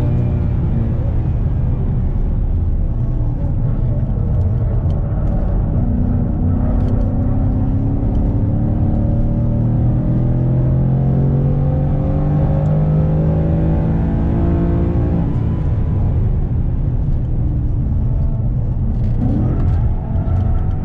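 Ford Mustang engine, heard from inside the cabin, pulling hard under full acceleration, its note rising steadily for about fifteen seconds. The pitch drops suddenly at an upshift, then climbs again, with a brief dip near the end.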